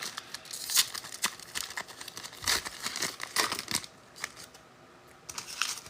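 Trading cards handled by hand as a freshly opened pack is flipped through: a run of soft clicks, slides and crinkles for about four seconds, then a brief lull and a few more clicks near the end.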